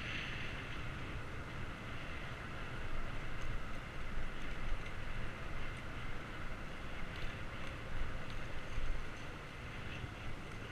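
Wind rushing over a GoPro's microphone on a moving bicycle, a steady low rumble and hiss with faint ticks mixed in.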